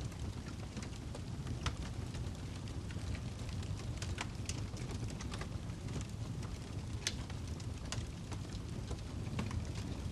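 Wood fire burning in a fireplace: a steady low rumble of flames with frequent irregular sharp crackles and pops from the burning log.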